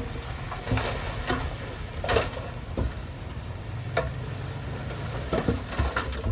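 Heavy earthmoving machine's diesel engine running low and steady, with irregular clanks and knocks scattered over it, typical of crawler tracks and soil or stones working on the site.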